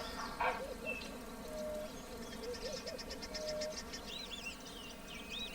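Wild birds calling in the bush: a few short low calls, a rapid high ticking trill around the middle, and looping high whistled calls in the last second and a half.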